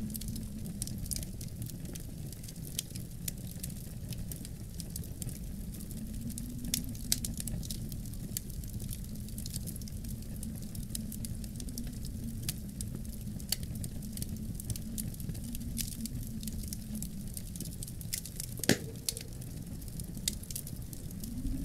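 Wood fire crackling in a fireplace, with irregular small pops and one louder crack about three-quarters of the way through, over a low steady wind rumble that swells into a rising gust near the end.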